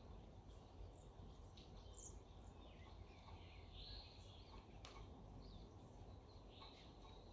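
Faint early-morning birdsong: several wild birds giving short chirps and calls at irregular intervals over a low steady background rumble, with one sharp click about five seconds in.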